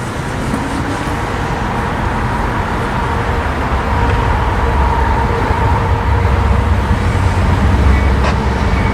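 Freight train passing close by: a steady rumble and roar of the train that grows heavier from about four seconds in.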